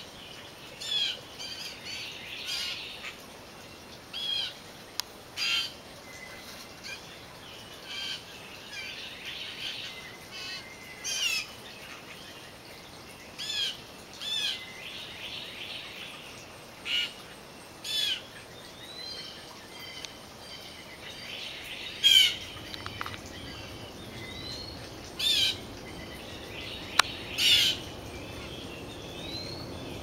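Songbirds calling: short chirping calls repeated every second or two, the loudest about two-thirds of the way in, over a low background rumble that builds toward the end.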